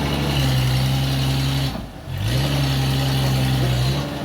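Heavy vehicle engine running steadily at one pitch. About two seconds in it briefly drops away, then its pitch rises back up to the same steady level.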